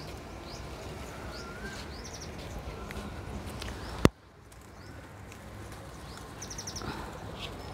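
Small birds chirping and whistling in short, scattered calls, with quick trills of high notes. One sharp click about four seconds in.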